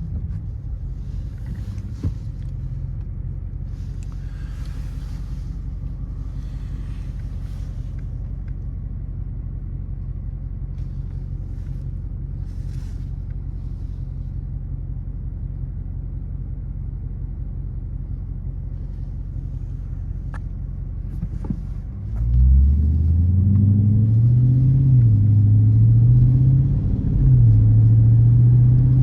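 2020 Dodge Charger R/T's 5.7-litre HEMI V8 with its mid mufflers deleted: a steady low drone, then about 22 seconds in it accelerates hard, the pitch rising and dipping twice through gear changes.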